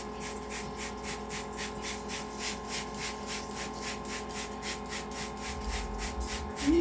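Water being sprayed onto a parrot, a hissing spray that pulses evenly about five times a second.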